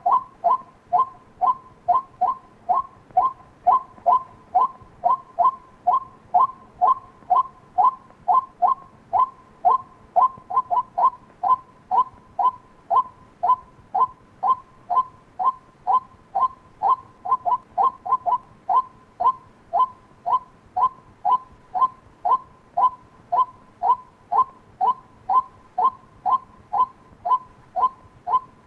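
White-breasted waterhen calling: a steady run of short, clipped calls repeated about twice a second without a break.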